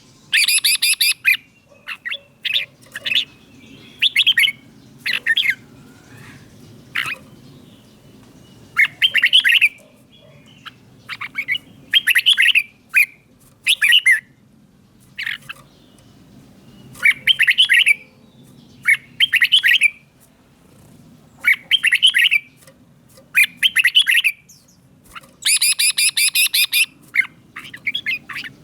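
Red-whiskered bulbul singing: short, bright, warbled phrases repeated every second or two with brief pauses between them, a few of them harsher and fuller.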